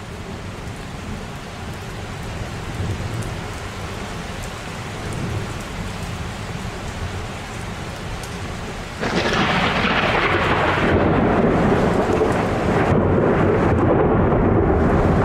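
Thunderstorm: steady rain with low thunder rumbling, then about nine seconds in a sudden, much louder crack of close thunder from a lightning strike that keeps rumbling on.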